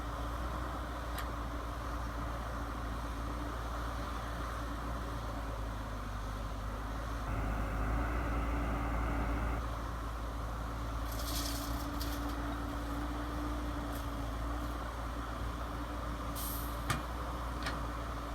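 Radio-controlled model truck running with a steady hum. There are short air-brake-like hisses about 11 and 16 seconds in, and a sharp click near the end.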